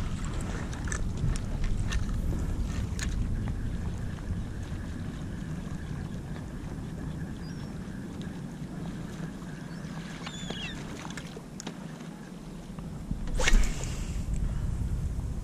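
Kayak rocking on choppy water, with wind rumbling on the microphone and scattered small splashes. A louder splash comes about 13 seconds in, as breaking fish surface around the boat.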